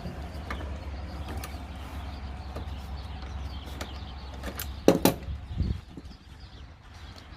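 Push-mower wheel and hand tools being worked during wheel removal: scattered light clicks and creaks, then two sharp metal knocks in quick succession about five seconds in and a duller thump just after, over a low steady rumble.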